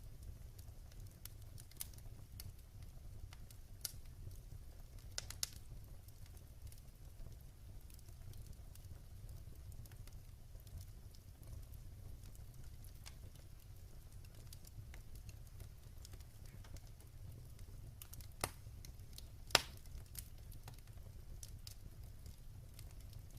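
Wood fire burning in a fireplace: a low steady rumble of the flames with scattered sharp crackles and pops, the loudest two close together near the end.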